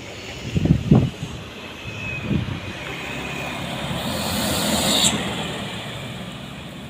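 Motor vehicle traffic on a steep hill road: engines running steadily, with a couple of low thumps about a second in. The noise swells as a vehicle passes, peaks around four to five seconds in, then drops off abruptly.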